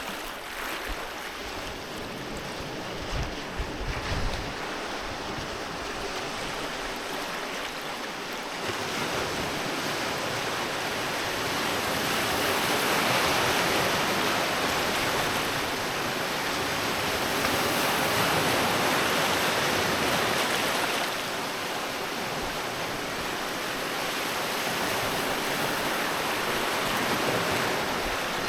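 Sea waves breaking and washing onto a beach, a steady surf that swells in slow surges, loudest in the middle, then eases and builds again near the end. A few low thumps come about three to four seconds in.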